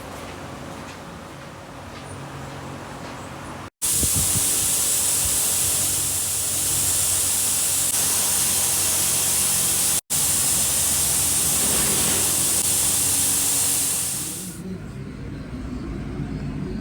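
Compressed-air spray gun hissing steadily in a long blast that breaks off for an instant near 10 seconds and fades out about 15 seconds in. A low machine hum runs underneath before and after.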